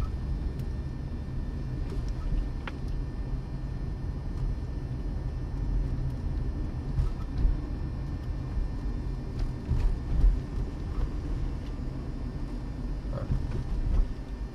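Low, steady rumble of a car driving, with a few faint clicks scattered through it.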